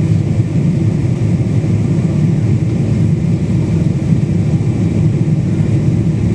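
Steady low cabin noise inside a Boeing 777-200 in flight: engine and airflow noise as heard from a passenger seat, unchanging throughout.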